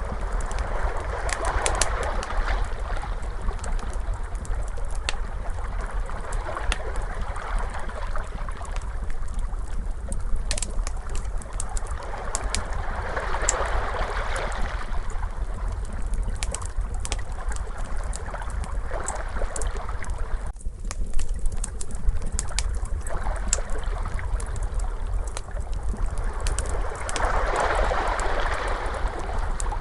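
Ocean waves washing in and out, swelling about three times, over a crackling fire with scattered sharp pops and a steady low rumble.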